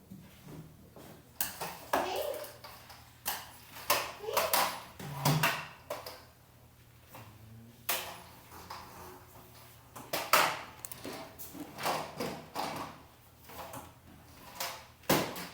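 Irregular knocks, clacks and rattles of hard objects being handled and bumped, about one or two a second, some with a brief ring.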